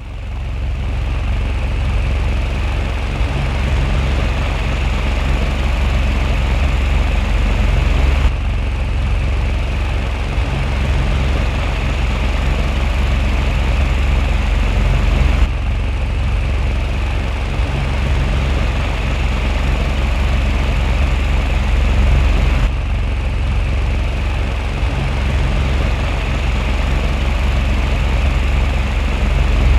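Homemade mini ceiling fan running steadily: an old electric fan motor spinning cardboard blades, giving a continuous whir with a low airflow rumble and hiss.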